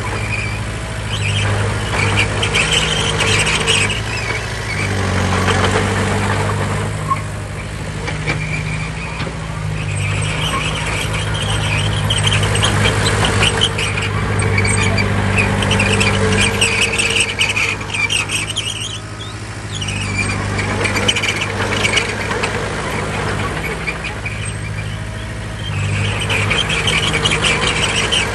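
Crawler bulldozer's diesel engine running steadily under load, with the steel tracks squealing and clanking in spells as the machine moves back and forth.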